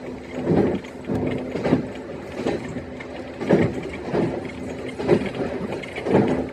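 E131-series electric train running along the line, heard from inside the cab. Irregular knocks and rattles come about every half second to a second, over a steady low hum that comes and goes.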